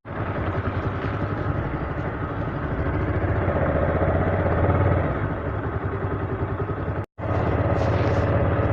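Motorcycle engine running steadily while being ridden, with a short break about seven seconds in.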